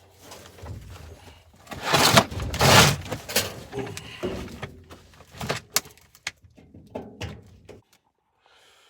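Sheet-metal furnace access door being worked loose and pulled off: a busy run of scraping, rattling and knocking, loudest about two to three seconds in, with sharp clicks through the rest.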